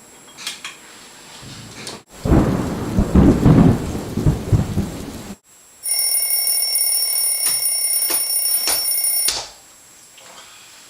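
A thunderclap sound effect rumbling for about three seconds and cutting off sharply. After a short pause an alarm clock rings steadily, high-pitched, for about three and a half seconds, then stops abruptly.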